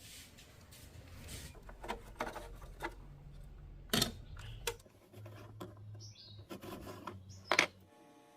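Scattered light clicks and knocks of small hard objects being handled, two sharper knocks standing out, over a faint low hum.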